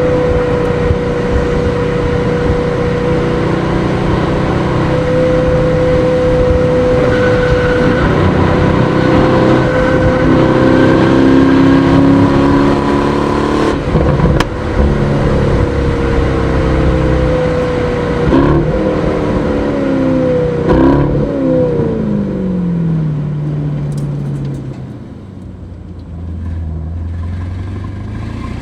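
Aston Martin DBX S's 4.0-litre twin-turbo V8 running under way, its note holding fairly steady and loud for most of the time, with a sharp click partway through. About two-thirds in the pitch swings up and down quickly a few times. Then the note falls away as the car slows and settles into a low, quieter run near the end.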